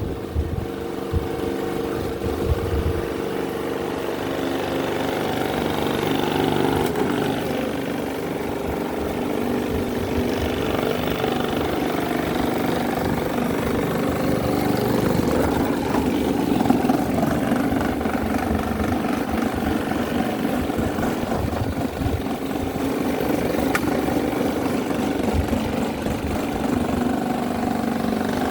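Several small electric fans running together, a steady whir and motor hum whose pitch shifts slightly a few seconds in.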